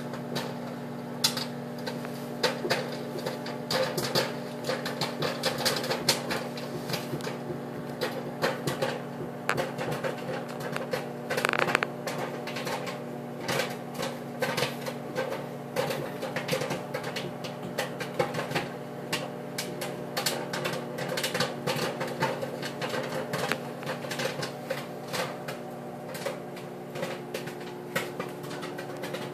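Popcorn kernels popping in a paper bag inside a running microwave oven: dense, irregular pops over the oven's steady hum.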